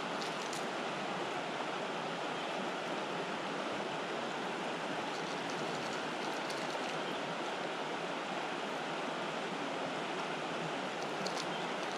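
Rushing water of river rapids: a steady, even rush, with a few faint light ticks.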